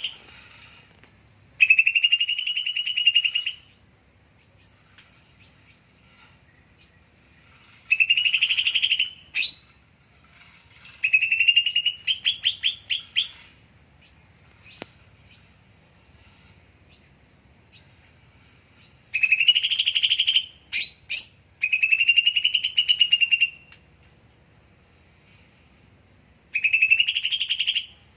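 Cucak ijo (green leafbird) calling in loud phrases of rapid, buzzy trills that rise in pitch. There are six phrases, each lasting one and a half to two seconds, separated by pauses, with a few sharp chips between them. A steady high whine runs underneath. This is the kind of call played as a lure to draw in wild leafbirds.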